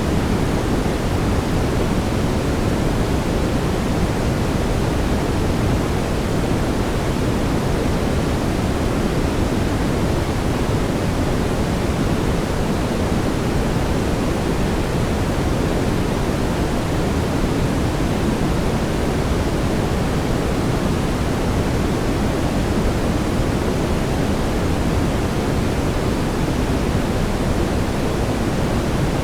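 Steady brown noise: an even, unchanging hiss weighted toward the low end, like a deep rumbling rush.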